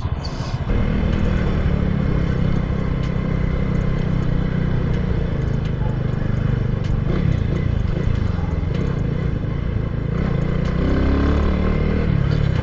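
Motorcycle engine running under way, mixed with wind rush on the rider's camera; the engine pitch falls from about seven to nine seconds in, then rises again near the end.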